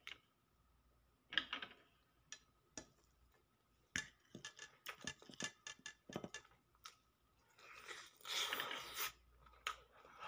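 Faint eating sounds from someone eating rice by hand: chewing with scattered small mouth clicks and smacks, busiest from about four to seven seconds in, and a short rougher noisy stretch about eight seconds in.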